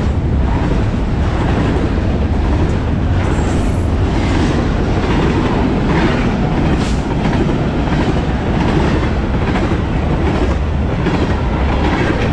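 Double-stack intermodal freight train rolling past close by: a loud, steady rumble of steel wheels on rail from the container well cars, with occasional clicks as the wheels cross rail joints.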